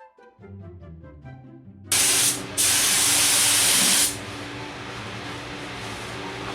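Background music with distinct notes for about two seconds, then a paint spray gun spraying epoxy primer in two loud bursts of hiss, a short one and then a longer one after a brief pause. After that a quieter steady hiss and low hum carry on.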